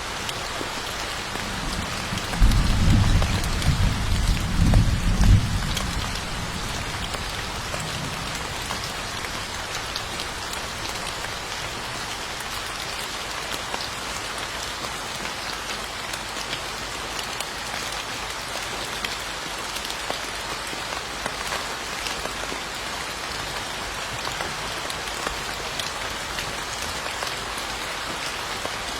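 Steady heavy rain hissing on a surface. A few seconds in, a roll of thunder rumbles low for about three seconds and dies away.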